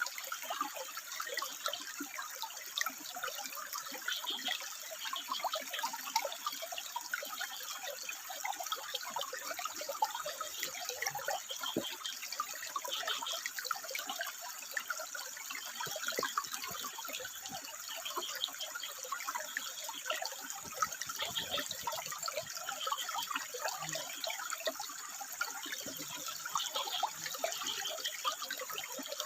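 Water steadily trickling and splashing over rocks, a continuous dense crackle with no break.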